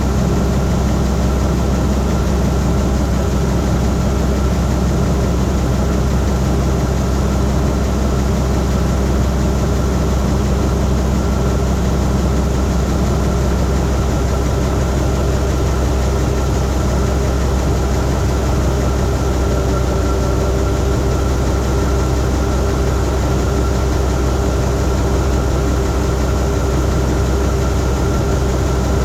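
Massey Ferguson 9690 combine's diesel engine running steadily while it travels, a constant low drone.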